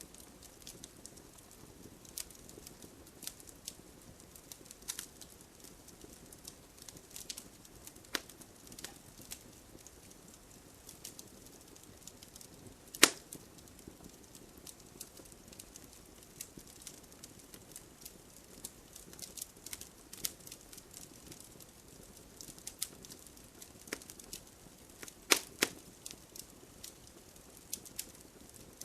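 Wood fire burning with a soft steady hiss and frequent irregular crackles. There is one sharp loud pop about halfway through and a couple more near the end.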